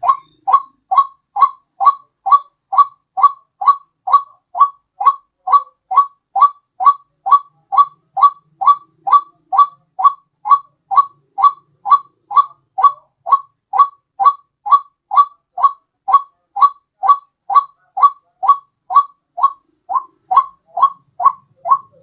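White-breasted waterhen's 'ruak' call, played as a bird-lure recording: short, even notes repeated about twice a second in an unbroken series.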